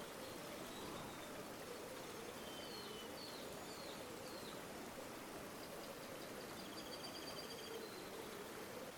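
River water flowing with a steady rushing sound, with small birds calling over it: a few short chirps about three seconds in and a rapid high trill near the end.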